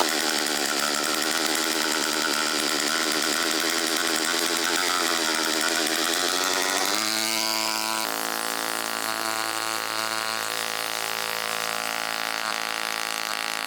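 Homemade mini gasoline engine running fast with a wavering pitch, then slowing about seven seconds in to a steady idle.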